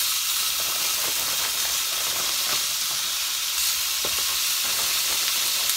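Frozen broccoli florets dropped by hand into hot oil in a frying pan, sizzling loudly and steadily.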